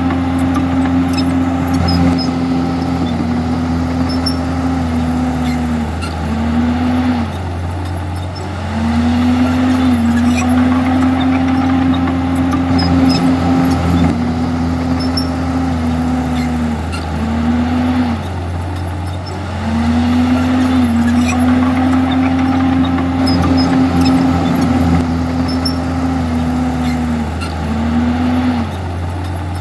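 Komatsu D51EX bulldozer's diesel engine running hard and steadily, its note dipping and recovering several times, about every ten seconds.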